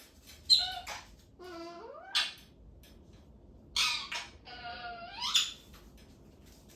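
Talking parrot making a series of about four drawn-out pitched calls, each sliding in pitch, with short pauses between; one near the middle rises from low to high, and the longest, near the end, dips and then sweeps up.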